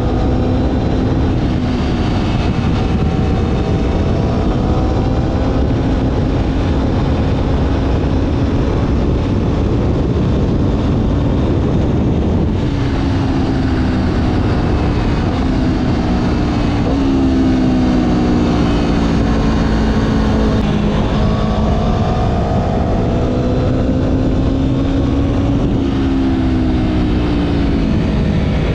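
Motorcycle engine running under way, its pitch rising and falling repeatedly with the throttle, under heavy wind noise on the action-camera microphone.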